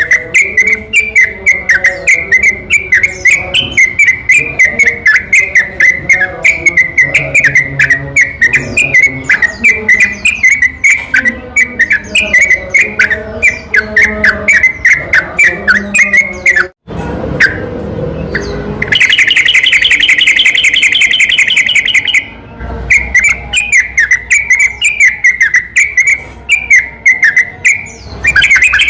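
Yellow-vented bulbul (trucukan) song: a rapid, unbroken string of short bubbling whistled phrases. About 17 s in the sound cuts off sharply. From about 19 s a fast, even trill runs for some three seconds, then the phrases resume and the trill returns at the end. This is a spliced lure track of song and long rapid trills, played to goad another trucukan into singing.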